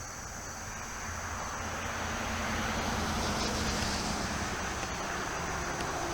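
Steady rushing vehicle noise with a low hum, swelling over the first three seconds and then holding steady.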